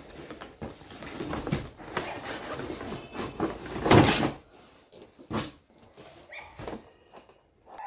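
Packaging being handled: rustling and scraping, with a louder knock about four seconds in, then a few scattered light clicks and knocks.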